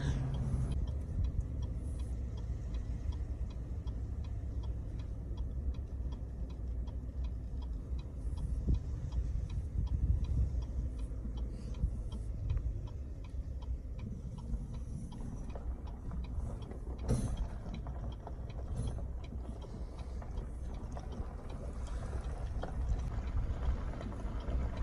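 Steady low road-and-engine rumble inside the cab of a 2021 Chevrolet Silverado Trail Boss pickup at low speed while it tows a truck, with a faint regular ticking over it and one sharp knock about two-thirds of the way through.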